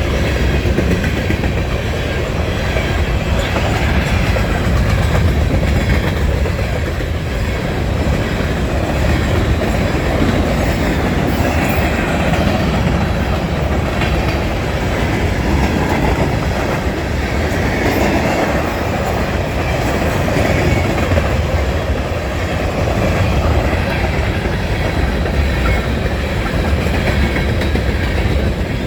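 Freight train of grain cars rolling past at close range: a steady, loud rumble of steel wheels on rail, with a few faint clicks midway.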